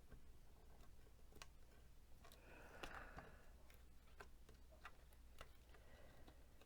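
Near silence with faint, irregular small clicks and a brief soft scratch about three seconds in: a weeding tool picking cut pieces out of an Infusible Ink transfer sheet.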